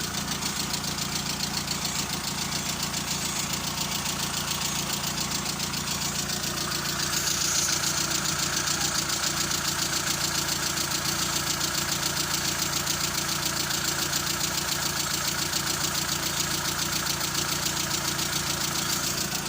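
A motor or engine running steadily with a fast, even rattle, getting slightly louder and brighter about seven seconds in.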